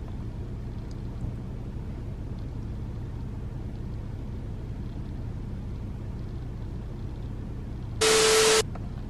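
Steady low rumble of a car driving, heard from inside the cabin. About eight seconds in, a loud burst of hiss with a steady tone in it lasts about half a second and cuts off sharply.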